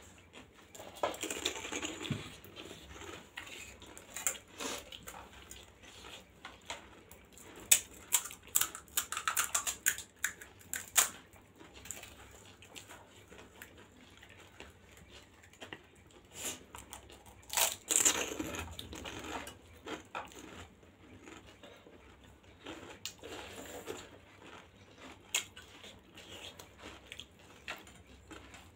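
Close-up eating sounds of pani puri: wet chewing and crisp crackling of the puri shells, in irregular clusters, with now and then a metal spoon clinking and scraping as filling is scooped up.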